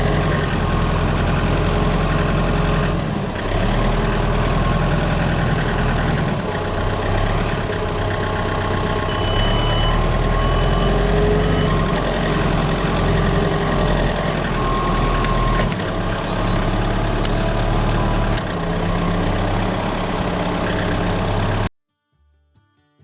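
Heavy equipment's diesel engine running, its pitch shifting now and then under load. A few short high beeps sound about nine to eleven seconds in.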